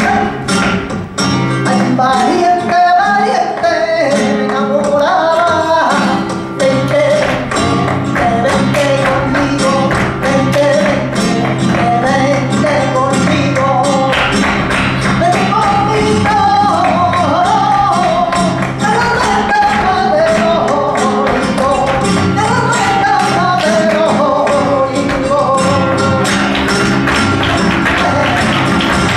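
Flamenco music: a singer's wavering, ornamented line over guitar accompaniment, with a dense, fast run of sharp percussive taps throughout. The voice rises out of the accompaniment near the start and again from about the middle until shortly before the end.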